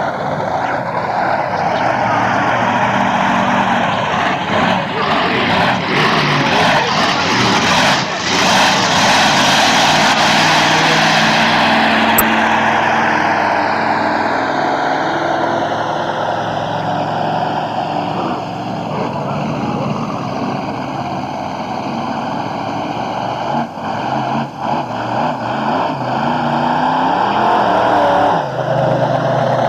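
Monster truck engine running loud and revving, the pitch rising and falling as the truck moves past.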